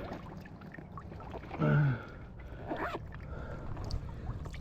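A man's short wordless vocal sound about one and a half seconds in, with a fainter one a second later, over a steady low rumble of wind and water.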